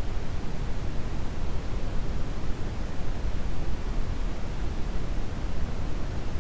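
Steady synthetic brown noise: an even, deep rushing hiss with most of its weight in the lows and no changes or events.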